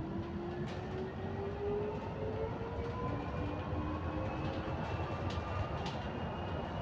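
Bus drivetrain whine rising slowly in pitch as the bus gathers speed, over a steady low running rumble heard from inside the cabin, with a few faint rattles.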